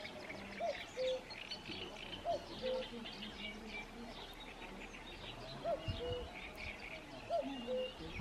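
Birdsong outdoors: a low two-note hooting call, a higher note then a lower one, repeated four times a second or two apart. Over it run many short, high chirps from small birds.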